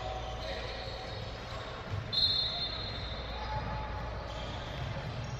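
Basketball game sounds in a large gym: a ball bouncing on the hardwood under a bed of distant voices, with a short high-pitched squeal about two seconds in.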